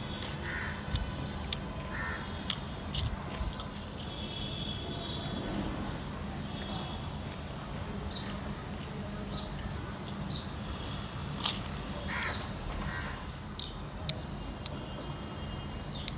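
Close-miked eating: chewing and biting with scattered sharp mouth clicks over a steady low hum. A bird calls a few times in the background, near the start and again about twelve seconds in.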